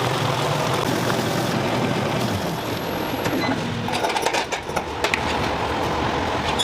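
Steady mechanical clatter and rumble of factory machinery, its character shifting abruptly a couple of times.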